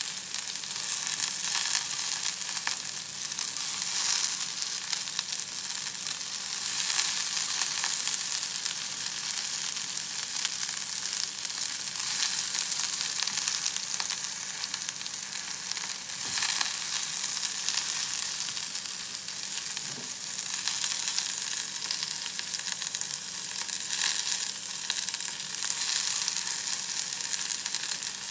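Onion rings and garlic sizzling steadily as they fry in oil in a frying pan, with a few brief clicks and scrapes as metal tongs turn them.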